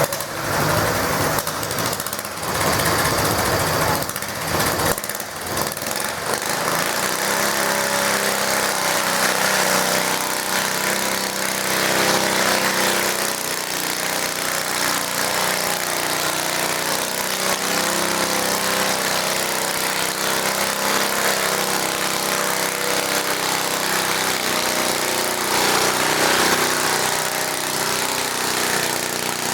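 Small garden tractor engine running steadily and loudly, as in a garden tractor pulling a weight sled. There are a few sharp knocks in the first few seconds.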